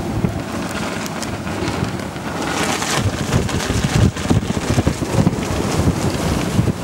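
Blizzard wind buffeting the microphone in irregular gusts, with a brief rise in hiss about two and a half seconds in.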